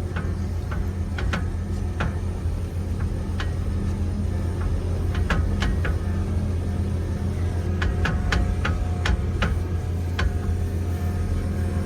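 An engine idling steadily, with scattered sharp clicks and knocks over it, most of them about eight to ten seconds in.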